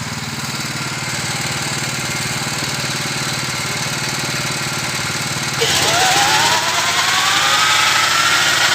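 An engine running steadily; about five and a half seconds in it gets louder, with a whine that slowly rises in pitch over a few seconds.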